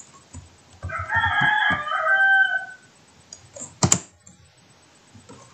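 A long bird call lasting about two seconds, starting about a second in, heard over faint computer-keyboard typing. A single sharp click comes near four seconds in.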